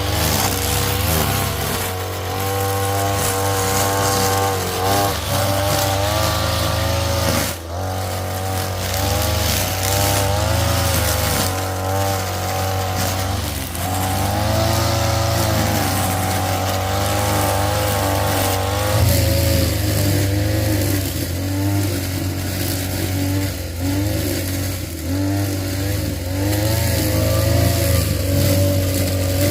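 An engine running, its pitch rising and falling as it revs up and down.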